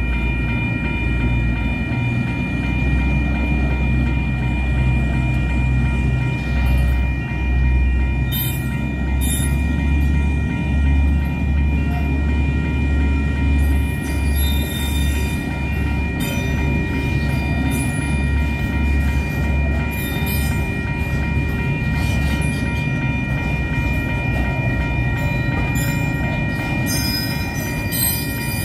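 A shunting train of freight wagons rolls slowly over a level crossing with a deep, steady rumble. Short high wheel squeals and clicks come from the wagons every few seconds. A level-crossing warning bell rings steadily throughout.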